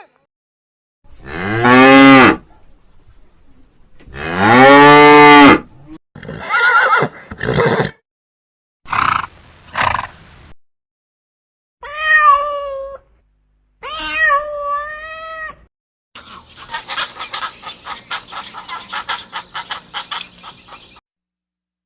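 A run of separate animal calls: two long, loud cow moos, then several shorter calls. Two high, wavering cat-like meows follow, and the run ends with about five seconds of a fast, pulsing rattle.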